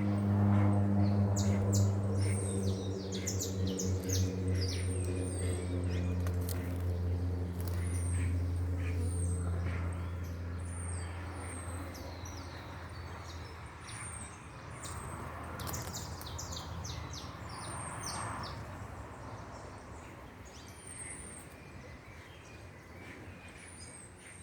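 Many birds chirping, with short, high, rapid calls throughout. Under them a low steady hum fades away over the first ten seconds or so.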